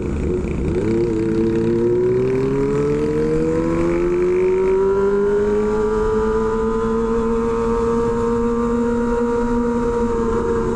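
Kawasaki Ninja ZX-25R's 250 cc inline-four engine through an SC Project aftermarket exhaust, under way on the road. The engine note drops briefly about a second in, as at a gear change, then climbs steadily for several seconds and holds high.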